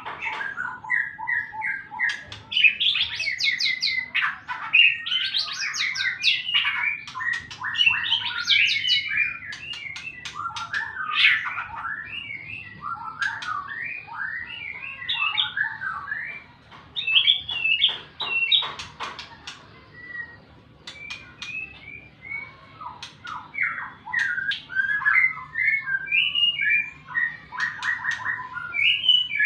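White-rumped shama (murai batu) singing a long, varied song of quick whistled phrases mixed with sharp clicks, a bird just out of its moult and in full challenging voice.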